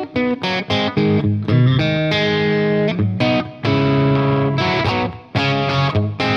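Telecaster-style electric guitar played through an Origin Revival Drive overdrive pedal on its Marshall-voiced British side, into a VHT amp. It plays a riff of overdriven chords and notes, many quick strikes that ring on, and stops near the end.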